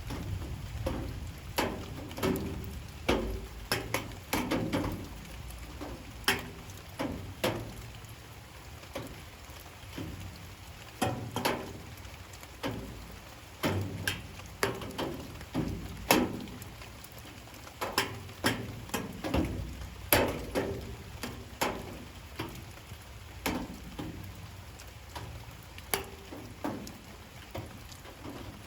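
Light rain: heavy drops tapping irregularly on a hard surface, a few sharp taps a second over a low steady rumble.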